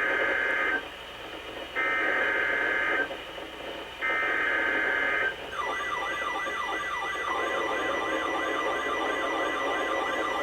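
Emergency Alert System SAME header: three bursts of screeching digital data tone, each about a second long and a second apart, announcing a new alert. Then a warbling, siren-like alert tone rises and falls a couple of times a second over a steady high tone.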